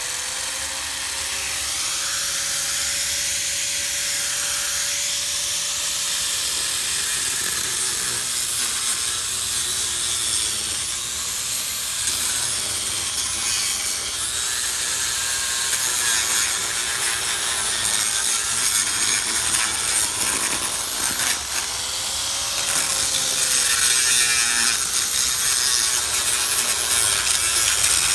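Angle grinder with a concrete grinding blade cutting open a crack in a concrete driveway: a loud, continuous high whine over harsh grinding hiss. The motor's pitch sags and recovers a few times as the blade bites into the concrete.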